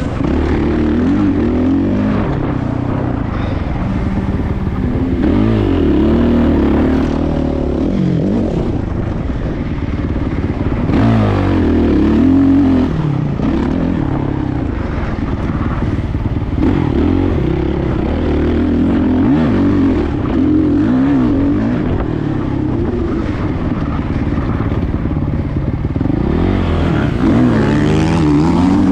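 Motocross dirt bike engine running hard around a track, its pitch climbing and dropping again and again as the rider opens and closes the throttle and shifts gears.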